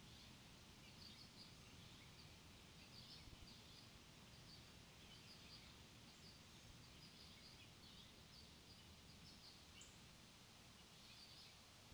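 Faint birds chirping: short high notes in small clusters every second or so over a quiet steady outdoor background.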